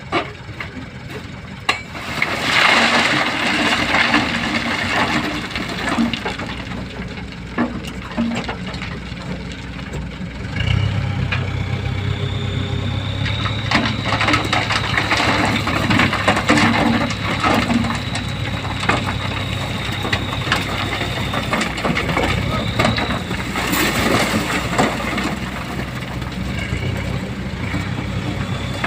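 Dump truck engine running, with a noisy, louder stretch about two seconds in; about ten seconds in it settles into a steady low drone.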